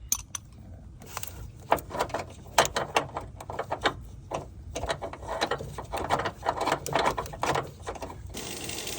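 Air tool working on a bolt under the car, giving an irregular, rattling clatter of rapid clicks and knocks that grows louder as it goes. A steady hiss starts near the end.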